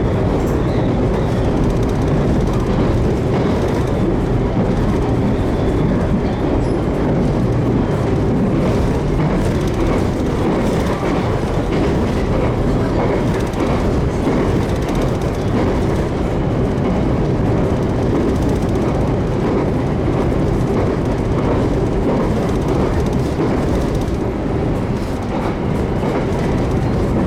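JR Kyushu 813 series electric train running between stations, heard from inside the car: a steady running noise of wheels on the rails.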